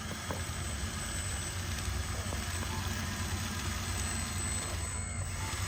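Steady low engine-like drone from a remote-control truck running, with a faint high whine.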